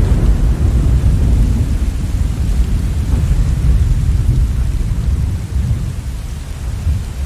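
A long, deep roll of thunder rumbling and slowly fading out toward the end, over steady heavy rain.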